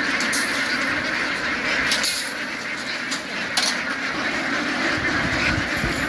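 A large flock of ducks quacking together in a dense, steady din, with a few sharp clicks or knocks in among it.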